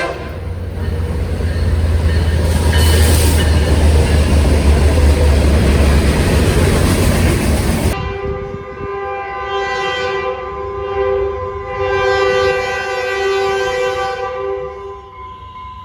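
Caltrain commuter train passing close by with a loud, heavy rumble for about eight seconds. After an abrupt change, a train horn sounds a steady chord that swells twice, once briefly and then longer.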